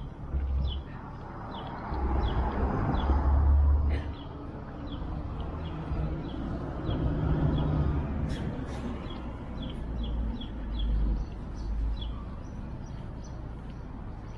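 A small bird chirping over and over, about two short falling chirps a second, over a low rumble that swells and fades in uneven gusts.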